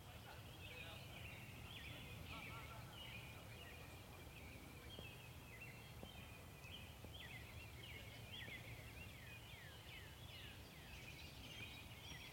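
Faint birdsong: many short chirps and downward-sweeping whistles, over a low steady rumble.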